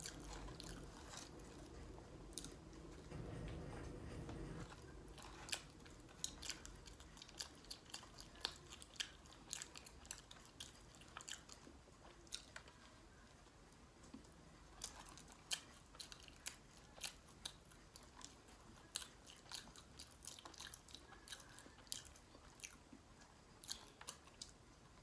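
A person chewing food close to the microphone, with many small, irregular clicks of mouth and teeth.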